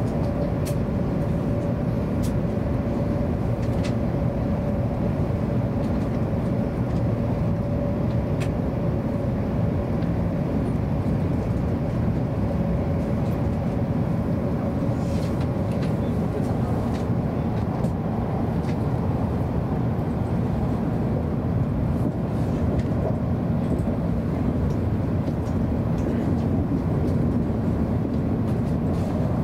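Cabin noise of a Hokuriku Shinkansen train running on the line: a steady low rumble with a faint even hum that fades out about halfway through.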